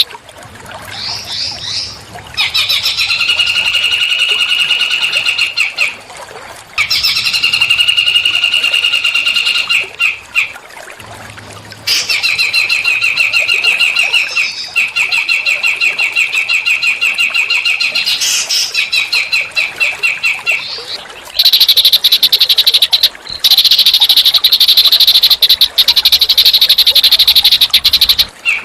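Small songbird singing rapid, buzzy trills in phrases a few seconds long, with short pauses between them. This is a recorded small-bird song used as training song for magpie robins.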